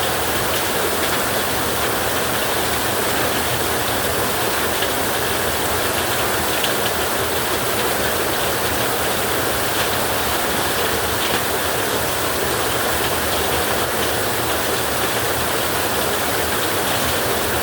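Heavy rain falling steadily on a metal roof, an even hiss with faint scattered ticks of drops.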